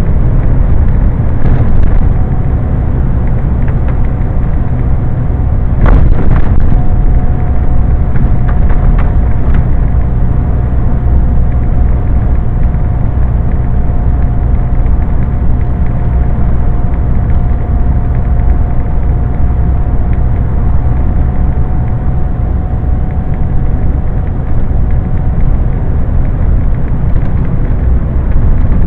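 Scania lorry running at road speed: a loud, steady low noise of engine and road, with a thin steady whine from about two seconds in until near the end, and a single knock about six seconds in.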